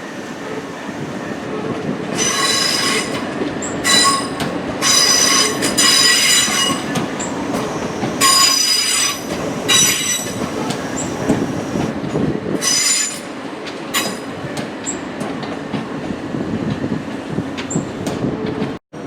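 A train rolling slowly through, its wheels squealing on the rails in about six high, shrill bursts over a low rumble. The squealing stops after about thirteen seconds and the rumble carries on, then the sound cuts out abruptly near the end.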